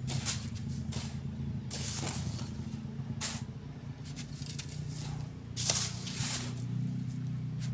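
Sand being shovelled and sifted, each throw a short hissing rush, repeated several times, over an engine running steadily.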